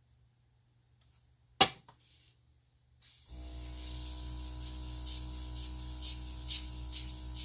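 A single sharp click, then about three seconds in an airbrush compressor starts and runs with a steady motor hum, while air hisses from the airbrush in short surges as it blows alcohol ink across the paper.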